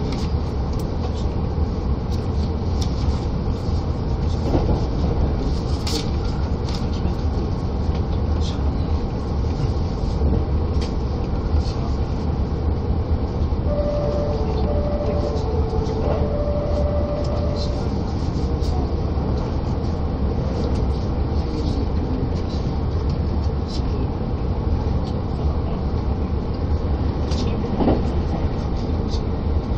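Running noise inside a limited express electric train at speed: a steady low rumble with scattered sharp clicks from the rails. A short run of broken tones sounds a little past halfway through, as the train passes through Shin-Koiwa station.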